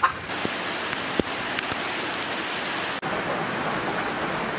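Steady, hard rain coming down, heard from under a barn roof, with a few sharper drops tapping in the first couple of seconds.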